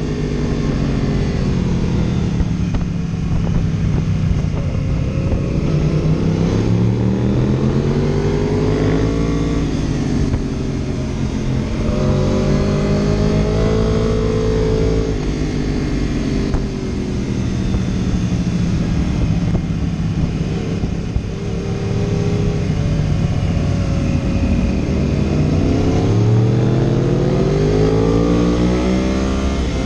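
Vehicle engine heard onboard, repeatedly revving up and dropping back as it accelerates out of and slows into the bends of a winding road, its pitch swinging up and down every few seconds over steady wind and road noise.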